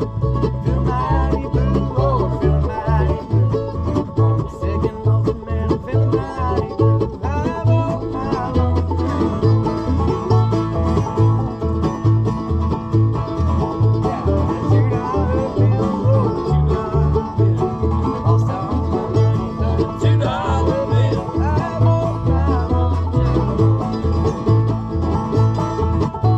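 Acoustic bluegrass jam with banjo picking over guitar, and a steady low beat underneath.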